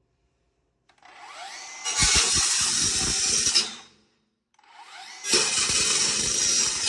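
Handheld power tool cutting sheet-metal HVAC duct in two runs. Each run starts with a rising whine as the tool spins up, then a harsh, rattling cutting noise lasts for about two seconds before it stops.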